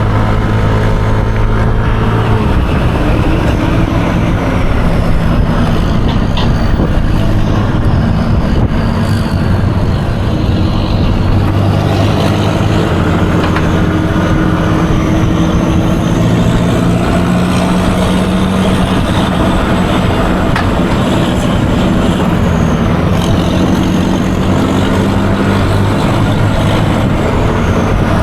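Yamaha Aerox 155 scooter's single-cylinder engine running during a ride, its pitch rising and falling with speed, over steady road and wind noise.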